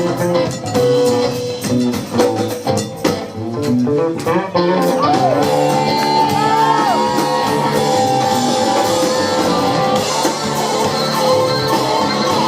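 Live soul-rock band playing, with guitar and some singing over the rhythm section. The first few seconds are short, choppy hits; from about four and a half seconds in the band holds longer chords, with a few pitches bending up and down.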